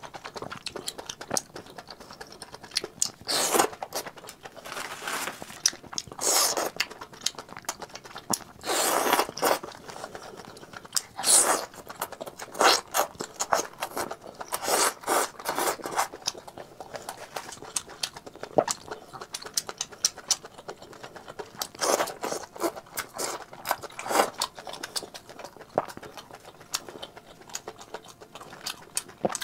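Close-miked eating sounds: wet chewing, lip smacking and biting on baby octopus in chili-oil sauce, with several louder sucking or slurping sounds of about half a second each.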